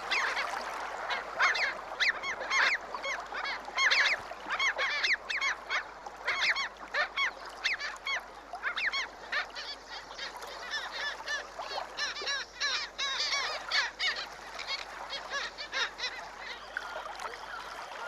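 A flock of black skimmers calling: many short, overlapping calls, several a second.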